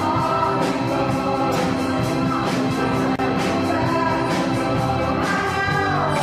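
Live band playing a song with a steady drum beat under sustained chords, and a voice singing over it.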